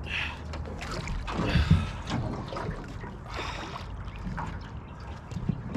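Water trickling and splashing against a small boat moving on a lake, with a few louder swishes about a second and a half apart.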